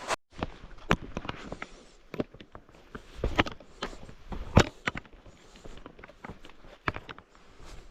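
A hiker's footsteps while walking downhill: uneven scuffs with sharper knocks of boots landing, the loudest about midway.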